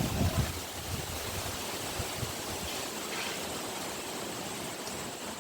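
Steady wind noise on the microphone, with a few low buffets in the first half-second.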